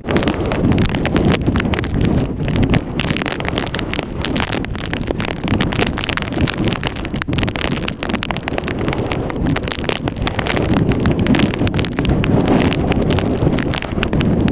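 Strong hurricane wind buffeting the microphone in irregular gusts, a loud rough rushing noise.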